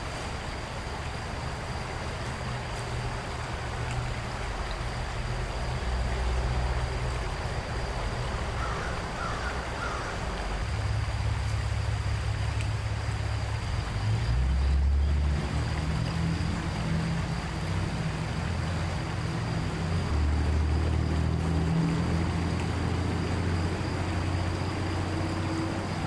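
Creek water running over shallow rapids: a steady rush with a low, uneven rumble underneath and a thin, steady high-pitched tone.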